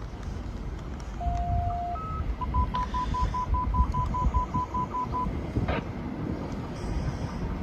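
Electronic tones: one held tone, a short higher one, then a run of rapid even beeps at a single pitch, about five a second for some three seconds, over a low outdoor rumble.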